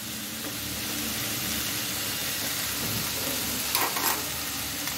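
Shredded cabbage sizzling steadily in hot oil in a steel pan, a continuous frying hiss. A short clatter sounds about four seconds in.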